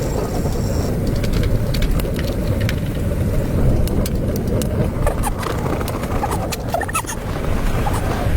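Strong wind buffeting the microphone in a snowstorm: a steady low rumble, with scattered faint clicks.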